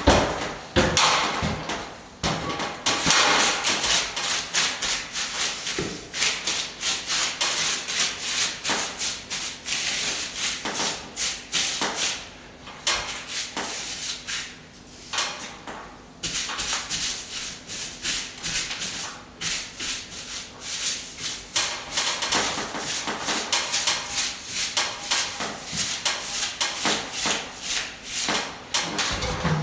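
A hand tool rubbing and scraping over plaster in quick repeated strokes, with a few short pauses. This is the sound of plaster being worked and smoothed over patched screw holes.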